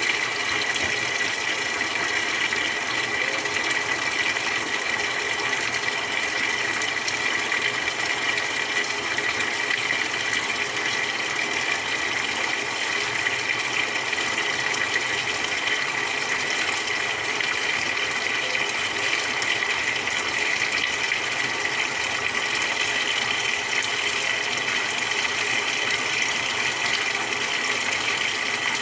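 Samsung 6.5 kg top-loader washing machine running mid-cycle, a steady rush of water with an even pump-like hum that holds unchanged throughout.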